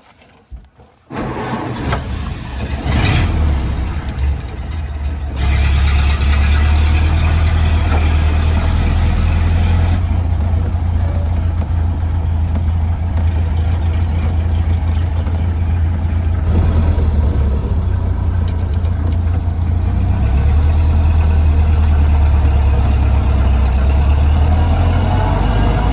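1931 Ford Model A pickup's four-cylinder engine running as the truck drives, a steady low drone with road noise, starting abruptly about a second in.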